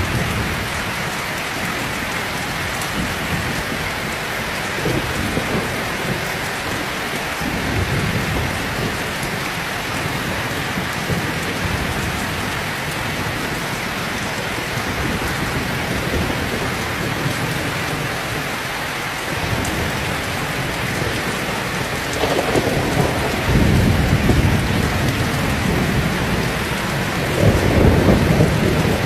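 Heavy rain pouring steadily, with several low rolls of thunder rumbling through it; the loudest rolls come in the last third.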